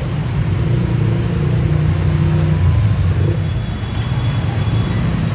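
Street traffic: a steady, loud rumble of passing vehicle engines.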